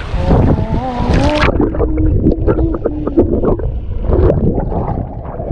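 Wind buffeting the microphone in a low rumble. Over the first three seconds there is a long held, slightly wavering voice-like tone, and a high hiss drops away abruptly about a second and a half in.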